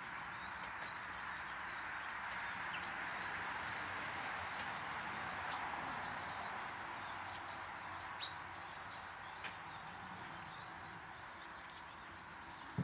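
Small birds at a bird table giving short, high chirps in scattered clusters, over a steady background hiss.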